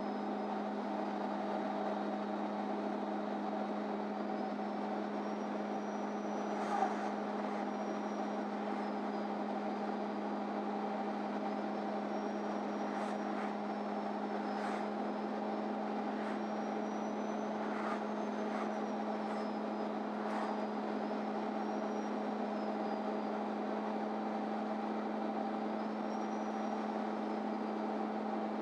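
Steady drone inside the cabin of a MAN Lion's City Ü (NÜ 323) intercity bus, one unchanging hum with a faint high whine that rises and falls. A few light clicks or rattles, the loudest about seven seconds in.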